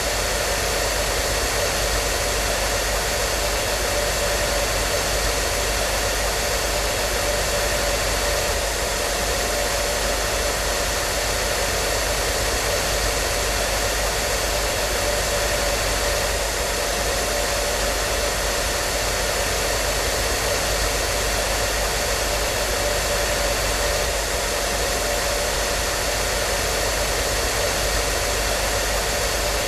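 Hair dryer running steadily: an even, unchanging rush of air with a steady motor hum.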